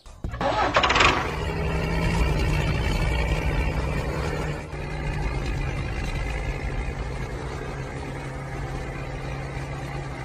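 A tractor engine starting about a quarter second in, then running steadily, dropping slightly in level after about four and a half seconds.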